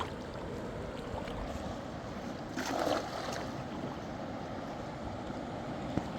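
Fast-flowing river rushing steadily, with one short louder burst a little before the middle.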